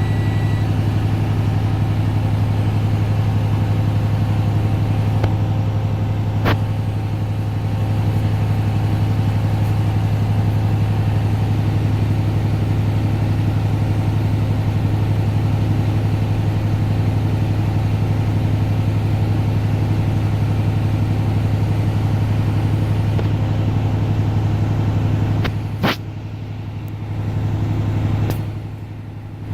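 Semi-truck diesel engine running steadily at idle while its air compressor builds pressure toward full air tanks. A high steady tone cuts off just after the start, there is a sharp click about six seconds in and another near the end, where the drone briefly drops.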